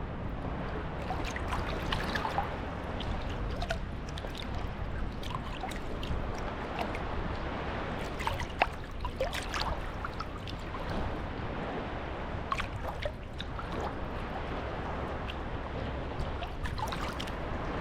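Small sea waves lapping and washing at the shoreline, with a steady wash of water and many small crackling clicks as the water runs back.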